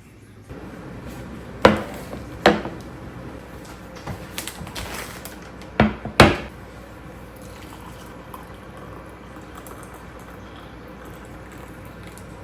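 Kitchen clatter: four sharp knocks with a short ring, in two close pairs about four seconds apart, with lighter rattling between them.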